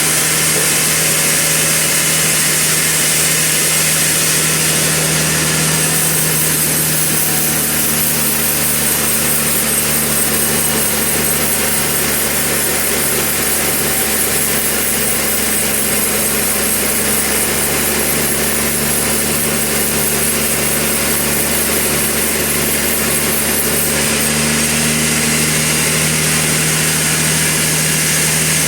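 Sawmill running steadily as it saws a Trembesi log: a constant motor hum under the noisy hiss of the saw, which turns brighter from about six seconds in until about twenty-four seconds.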